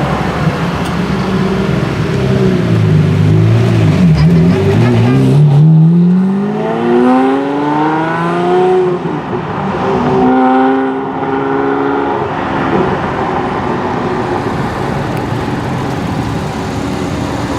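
Lamborghini Murciélago V12 engine and exhaust revving. The engine note sits low, then climbs steeply in a long rising rev about a third of the way in, drops back, climbs again, and then runs more steadily.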